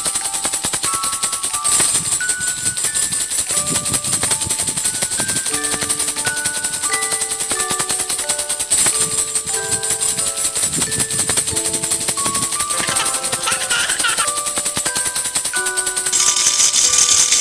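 Baby rattle (jhunjhuna) shaken steadily, a fast continuous shaking hiss, over a simple melody of short single notes. The shaking gets fuller and louder about a second before the end.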